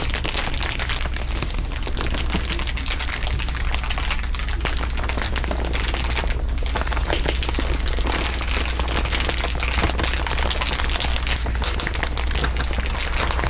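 Dense layered crinkling, many overlapping crackles with no pause, over a steady low hum.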